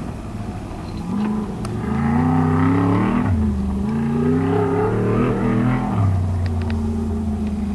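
Off-road race vehicle's engine accelerating hard: the pitch climbs from about a second in, drops sharply near halfway, climbs again, then settles to a lower steady note near the end.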